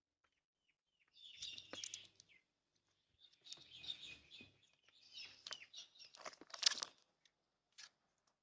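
Birds flapping their wings in three bursts of a second or so each, with a few faint chirps near the start.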